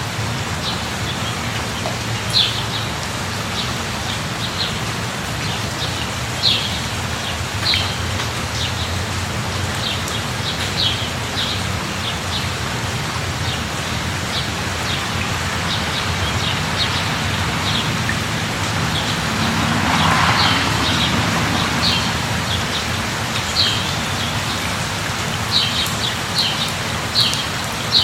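Steady rain falling, with short bird chirps repeating every second or so. About twenty seconds in, a broader whoosh swells and fades.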